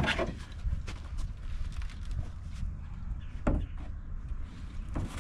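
Scattered light clicks and a few knocks from hands-on work on a truck, the strongest knock about three and a half seconds in, over a steady low rumble.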